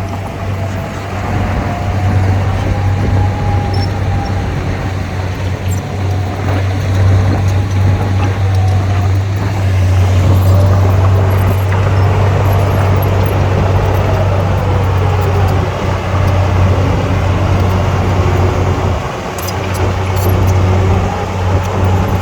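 Heavy diesel earthmoving machinery running under load, a deep steady engine drone with a higher engine note that rises and falls as the revs change.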